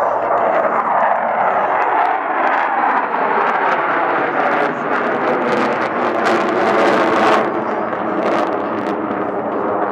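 Four Blue Angels F/A-18 Hornet jets flying in close diamond formation through a loop with landing gear down, their engines making a loud, steady jet noise whose pitch shifts slowly as they pass.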